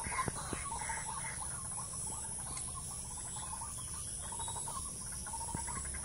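Birds calling in a rapid chattering string of short notes, about four or five a second, loudest in the first second, fading through the middle and picking up again near the end, over a faint steady high-pitched hum.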